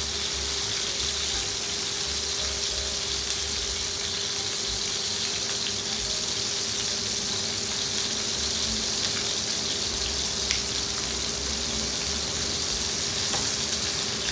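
Prosciutto-wrapped chicken breast sizzling steadily in hot oil in a frying pan. A faint steady hum runs underneath.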